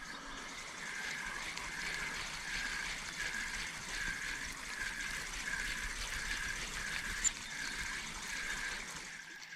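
Fishing reel being cranked to wind in the line, its handle turning at about two turns a second with a whirring tick on each turn.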